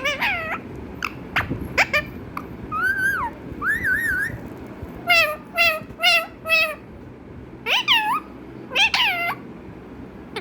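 Pet parrot calling in a string of short pitched calls: quick sharp notes, a couple of wavering whistles, a run of five short notes, then two drawn-out falling calls near the end that imitate a cat's meow.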